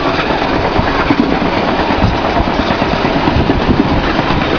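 Steam-hauled passenger trains running at speed side by side, heard from aboard one of them: a loud, steady rumble and rattle of wheels on rails with an uneven low pounding.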